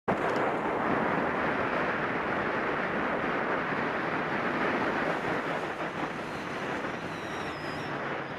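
Steady road and wind noise of a moving vehicle, starting suddenly out of silence, with a faint high falling whistle near the end.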